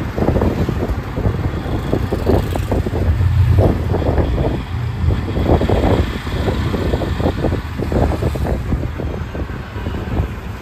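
A road vehicle running while riding, with wind buffeting the microphone in irregular rumbling gusts.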